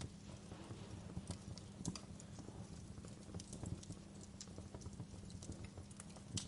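Wood fire crackling: irregular small pops and snaps over a low steady background.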